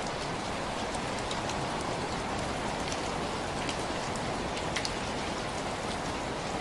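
Steady rainfall, an even hiss of rain with scattered sharper drop ticks landing on a surface.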